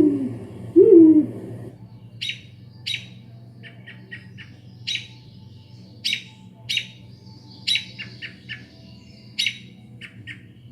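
Bird calls from an Arduino bird scarer's speaker: a couple of low gliding calls in the first two seconds, then a run of short, sharp high chirps, some single and some in quick clusters of three or four.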